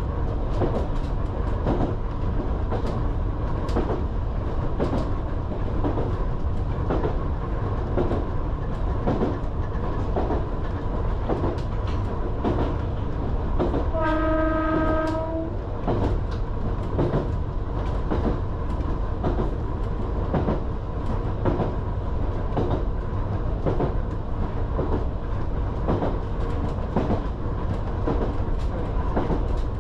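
Island Line Class 484 electric train running on the track, heard from inside the carriage: a steady rumble with a regular clickety-clack of wheels over rail joints. About halfway through, the train's horn sounds once for about a second and a half.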